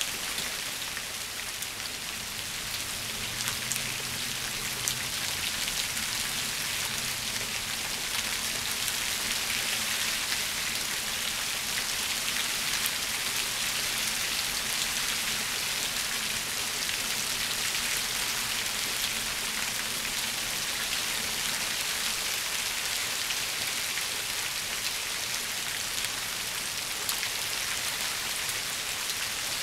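Steady rain falling on shrubs and a ground of fallen leaves: an even hiss with scattered single drops ticking close by.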